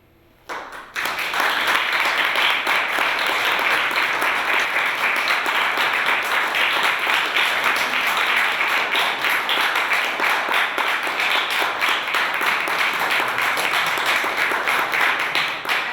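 Audience applauding, starting suddenly about half a second in and then keeping up steadily.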